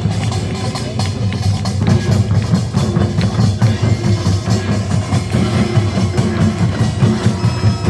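Korean nongak percussion band playing a fast, dense beat: drums and gongs struck together.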